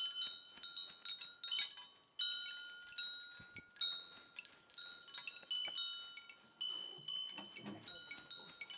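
Metal wind chimes tinkling, struck irregularly, with several clear high bell-like tones ringing on and slowly fading between strikes.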